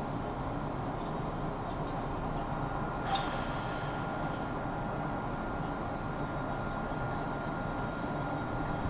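Interior of an MBTA subway car held in a stoppage: a steady low rumble and running noise with a faint constant whine. A short hiss of air comes about three seconds in.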